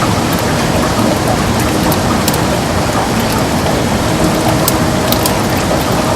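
Heavy rain falling on a window: a steady, even hiss with scattered sharp ticks of single drops striking.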